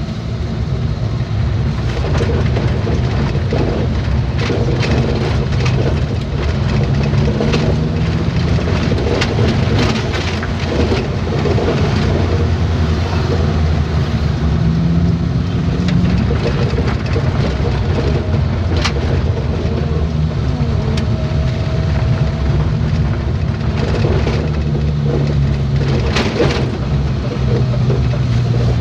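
Vehicle engine running and tyre and road noise while driving, the engine note drifting slowly up and down with speed, with a few short knocks or rattles.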